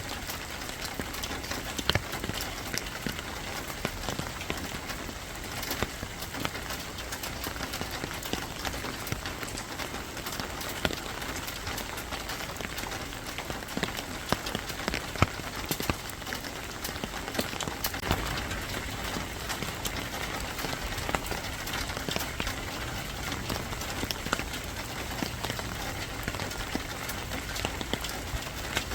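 Steady rain falling on a hard surface, an even hiss with many sharp drop ticks scattered through it.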